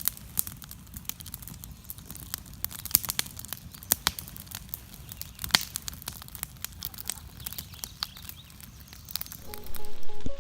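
Campfire crackling, with irregular pops and snaps of burning wood. Music comes in near the end.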